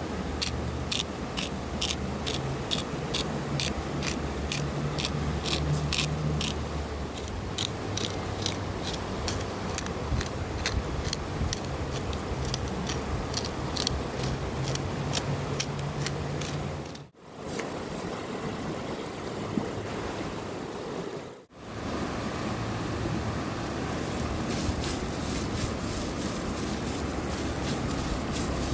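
Knife chopping vegetables on a cutting board in steady strokes, about two a second, over a steady rushing background; the chopping stops about halfway through.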